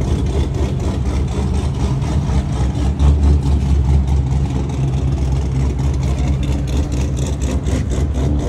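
A car engine idling with a steady, deep low rumble that swells a little about three seconds in.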